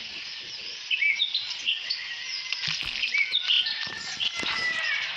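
Small birds chirping: many short, high chirps and quick whistled glides overlapping continuously, with a few light taps among them.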